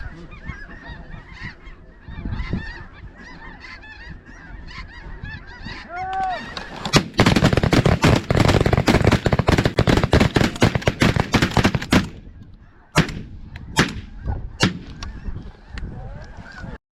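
A large flock of snow geese calling, many overlapping honks, with one clear close honk about six seconds in. About seven seconds in the sound becomes much louder and denser for some five seconds, then drops back, and three sharp cracks follow a little under a second apart.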